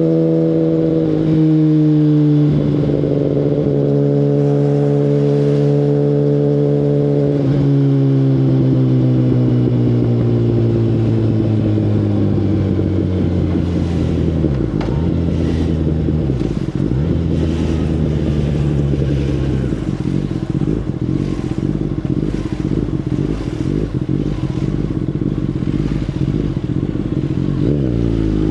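Kawasaki Ninja ZX-10RR's inline-four through an Akrapovic full exhaust system, running at steady revs with a short dip in pitch about a second in. From about a third of the way in the engine note falls away as the bike slows, with two brief dips in pitch around the middle, then settles into a low steady note before the revs rise sharply at the very end.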